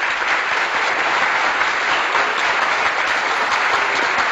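Loud, steady applause.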